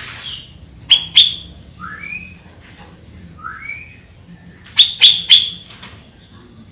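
Sooty-headed bulbul (kutilang) calling: two sharp notes about a second in, then two slurred whistles that rise and fall, then a quick run of three or four sharp notes near the end.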